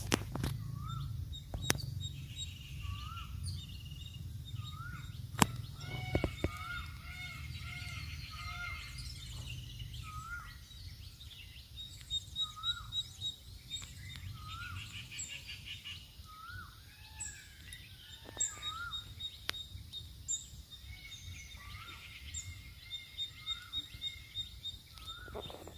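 Birds chirping: many short, repeated rising-and-falling notes, with runs of quick notes in places. A few sharp clicks in the first few seconds.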